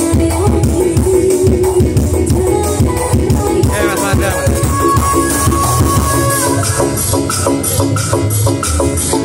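Loud dance music played through a huge outdoor Riswanda Audio 'sound horeg' system, with heavy bass, a fast steady beat and shaker-like percussion. A long held high note comes in about four seconds in and stops about two and a half seconds later.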